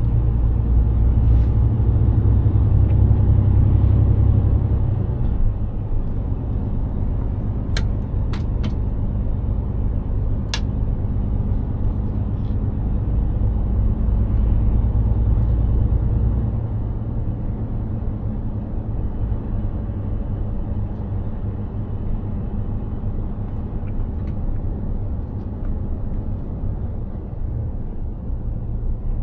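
Mercedes-Benz Actros 2763 truck's diesel engine running on the move, a steady low drone with road rumble. The drone steps down in level about five seconds in and again about sixteen seconds in. A few short sharp clicks come about eight to ten seconds in.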